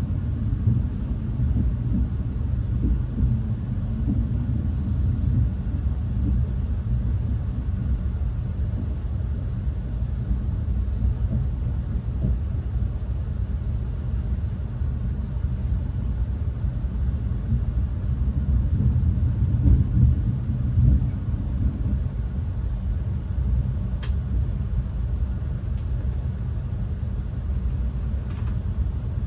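Renfe class 130 (Talgo 250) high-speed train running at speed, a steady low rumble heard from inside the passenger car, with a couple of faint ticks near the end.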